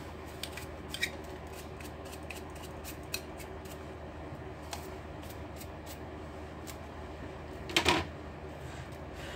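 Scattered light clicks and taps of small parts and tools being handled during a laptop repair, over a steady low hum, with a louder clatter about eight seconds in.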